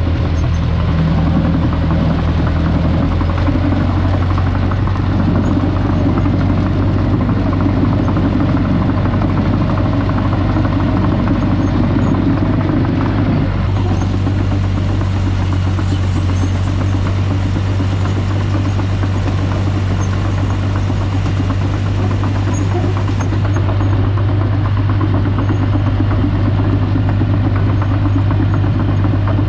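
Tractor engine running steadily with a deep, even drone while dirt work goes on, its tone shifting slightly about halfway through.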